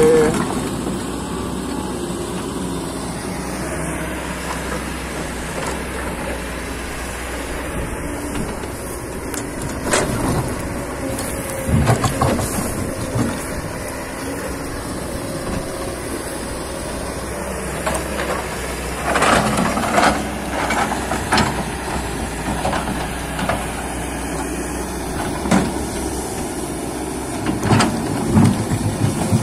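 Hydraulic excavator's diesel engine running steadily under work. Several short knocks and scrapes from the bucket come through it, most of them in the second half.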